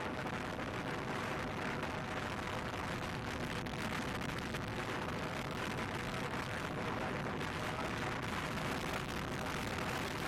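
Wind rushing over the microphone of a moving motorcycle, a steady blast of noise with the faint even note of the engine running underneath.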